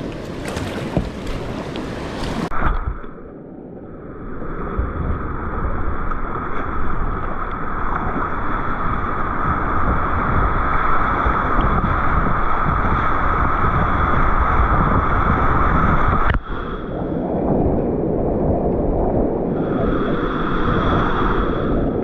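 Thompson River whitewater rushing and splashing around a kayak running big-water rapids, with wind buffeting the microphone. The first couple of seconds are the harshest splashing, then it settles into a steady rush, broken sharply about sixteen seconds in.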